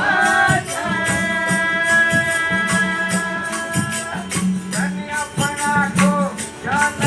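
Hindi devotional bhajan: a male voice holds one long note for about three seconds, then sings on in short phrases, over a steady beat of jingling hand percussion.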